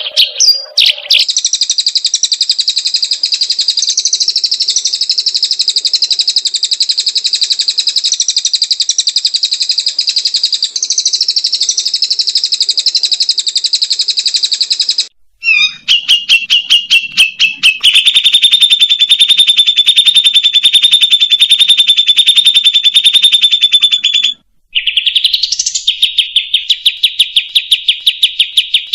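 Recorded songbird trills played as masteran for a caged murai: long, fast, evenly repeated high-pitched trills that stop abruptly and give way to a different trill about fifteen seconds in and again near the end, the later trills lower in pitch.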